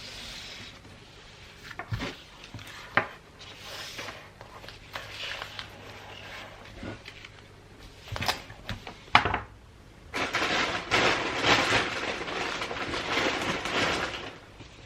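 Gift-wrapping paper being handled, rustling and crinkling, with scattered sharp taps and clicks; near the end a longer spell of steady rustling.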